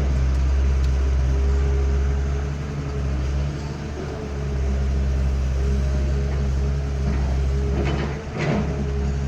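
Excavator diesel engine running steadily, dipping slightly in level about four seconds in, with a short clatter near the end.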